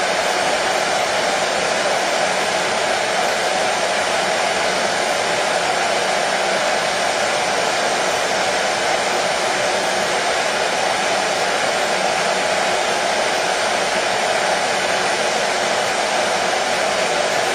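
Hair dryer running steadily: an even, unbroken rush of air and motor hum at a constant level, played as soothing white noise for colicky babies.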